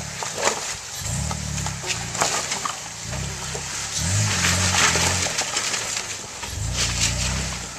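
Off-road truck engine revving in repeated short bursts, about a second each, as the truck crawls over rocks, with a steady hiss and scattered clicks over it.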